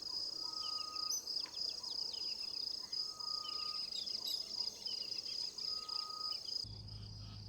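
Dawn chorus of the African bush: a steady high-pitched insect trill with many small birds chirping over it. One bird gives a level whistle three times, about three seconds apart.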